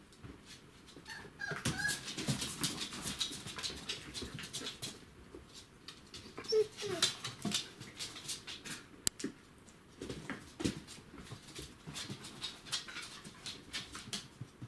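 Young border collie puppies whimpering briefly, a short high whimper about a second and a half in and a couple of lower whines a few seconds later, over many small clicks and scuffles.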